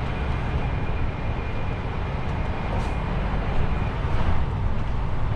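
DAF XF truck on the move: its engine running with tyre and road noise, a steady low rumble under an even hiss.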